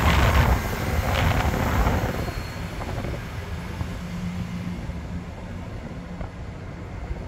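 Diesel train moving through the station: a loud rumble with a couple of sharp clatters that fades over the first three seconds. After that a steady low engine hum carries on.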